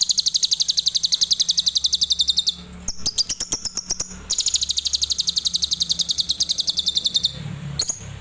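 Adult lovebird singing long, rapid chattering trills of high notes, about twelve a second. It sings two runs of several seconds each, with a short spell of sharp clicks between them about three seconds in.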